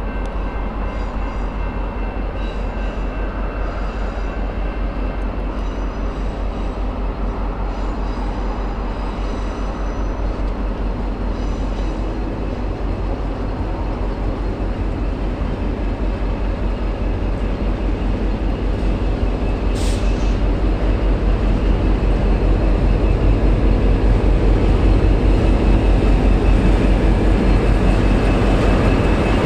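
Diesel-electric locomotive of the V/Line N class running, with a steady low throb that grows gradually louder in the second half.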